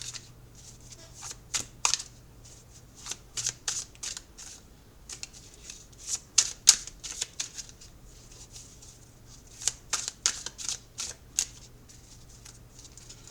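Tarot deck being shuffled by hand: clusters of quick card flicks and slaps, coming in short runs with brief pauses between.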